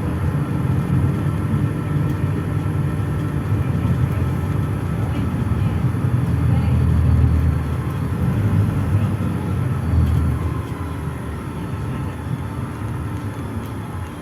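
PAZ-422320-14 Citymax 9 city bus driving between stops, heard from inside: a steady low engine and road rumble. It grows louder for a few seconds in the middle, then eases off a little about ten seconds in.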